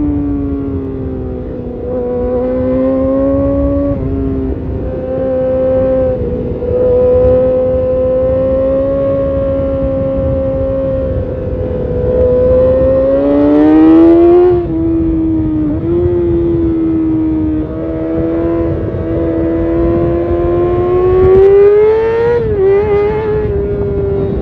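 Kawasaki ZX6R's inline-four sport-bike engine through an Arrow titanium race exhaust, running at steady mid revs. Twice, about halfway and again near the end, the revs climb and then drop sharply, as with a gear change.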